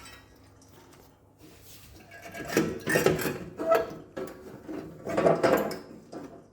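The ash pan of a Nordica Extra Flamme pellet stove being slid and handled, in several rough scraping, clattering strokes that begin about two seconds in.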